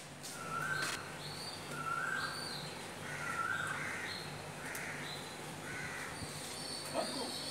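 A bird calling over and over in short calls, about one a second.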